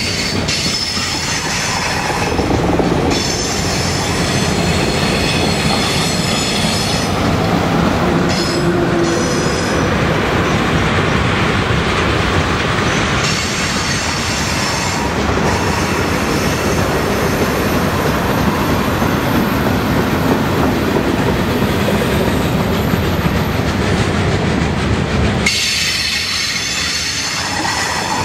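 Freight cars rolling past on curved mountain track: a steady, loud rumble of wheels on rail, with high-pitched wheel squeal from the curve coming and going several times.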